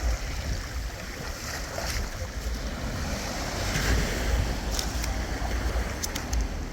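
Sea water sloshing and waves with wind buffeting the microphone, steady throughout, with a few sharp clicks near the end.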